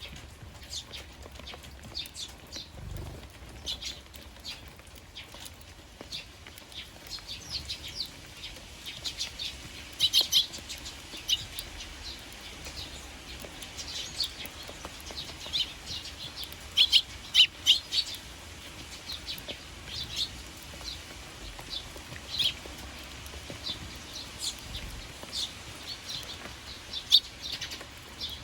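Eurasian tree sparrows chirping in many short, sharp calls that come thick and fast, the loudest clusters about ten seconds in and again around seventeen to eighteen seconds.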